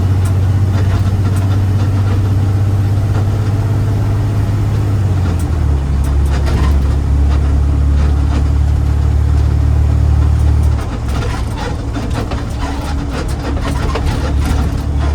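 Garbage truck's diesel engine running with a heavy low hum that steps down in pitch about five seconds in and eases off a little near the eleven-second mark, with light rattling over it.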